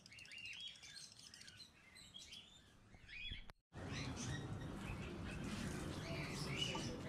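Cockatiels chirping over and over in short calls. About halfway through the sound drops out for a moment, and the chirping comes back over a louder steady background noise.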